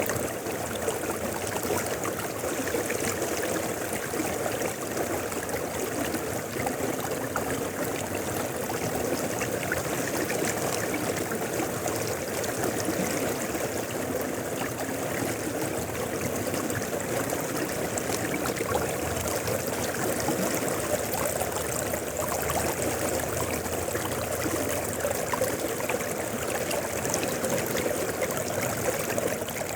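Mountain river flowing steadily, an even, unbroken sound of running water.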